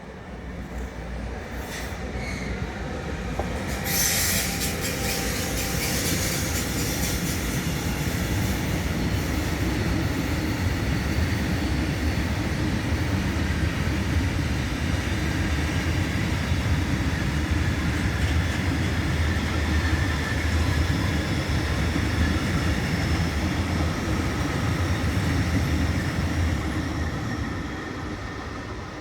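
A train passing on the track: a rolling rumble that builds over the first few seconds, stays loud and steady for about twenty seconds, then fades near the end.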